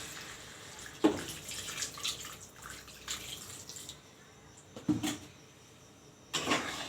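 Water poured into a pan of frying chicken and potatoes to make the gravy, with a couple of sharp knocks from the pan or utensils.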